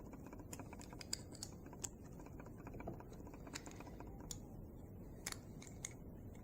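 Faint, irregular small clicks and taps of tiny metal engine parts and hand tools being handled during the teardown of a model diesel engine.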